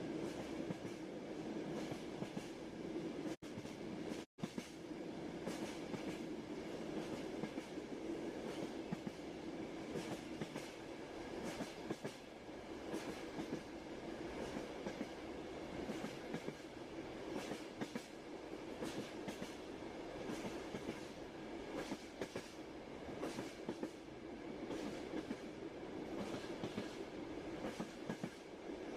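Passenger train heard from inside the carriage: a steady rumble of wheels on rails with frequent clicks from the rail joints. The sound drops out twice for an instant about four seconds in.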